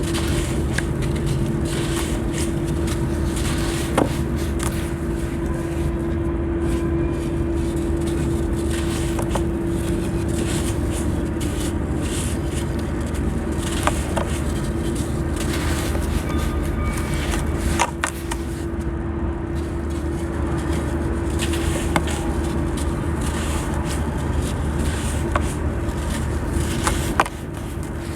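Crispy sand blocks crumbling wet, with crackling and a few sharp cracks scattered through, over a steady low hum.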